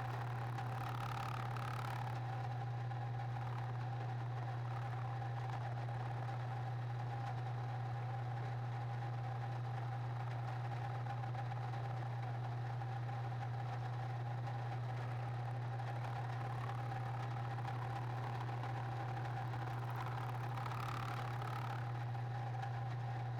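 Steady low machine hum with a fainter higher tone above it, unchanging throughout.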